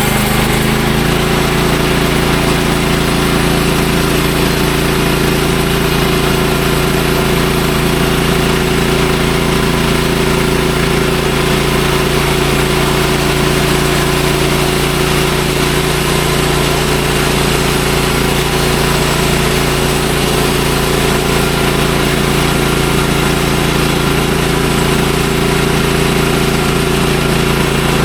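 Bandsaw sawmill's engine running at a steady, unchanging speed.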